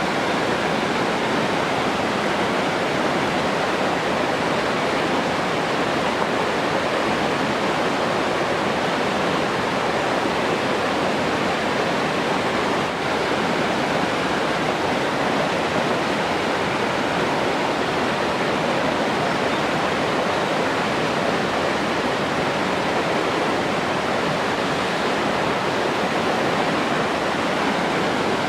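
Steady rushing of flowing water, like a waterfall or fast stream, an even unbroken hiss with no change throughout.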